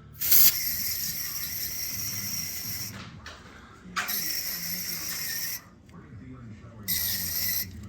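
Three bursts of pressurised spray hissing from a nozzle, with a thin whistle in the hiss, each starting and stopping abruptly: a long one at the start, a shorter one about four seconds in, and a brief one near the end.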